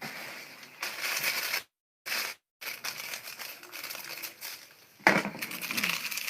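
Close-up crunching and chewing of crisp food, in irregular bursts. The sound cuts out to silence twice briefly about two seconds in, and the crunching is loudest near the end.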